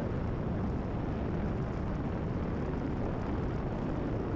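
Cessna 172RG's engine and propeller heard from the cockpit during the climb-out after a touch-and-go, a steady, even drone with no change in pitch.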